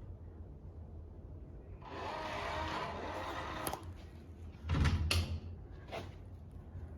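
A door being worked on arrival home: a scraping rattle for about two seconds, then a heavy thump with a couple of sharp clicks as it shuts.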